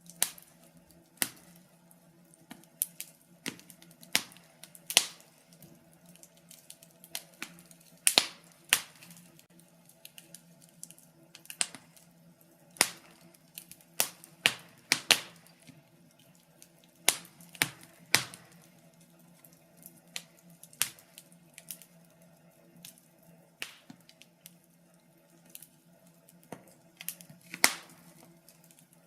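Wood fire in a fireplace crackling: irregular sharp pops and snaps, sometimes several close together, then gaps of a second or two. A faint steady hum runs underneath.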